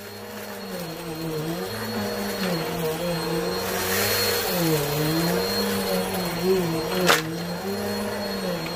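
Vacuum cleaner running steadily, its motor pitch wavering up and down over and over as it works through a mess of dirt and powder, with one sharp click about seven seconds in.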